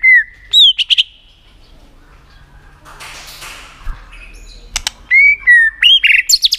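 White-rumped shama calling: short, loud down-slurred whistled notes mixed with sharp clicking 'tak' calls, in one group near the start and another from about five seconds in, with a brief rustle in between.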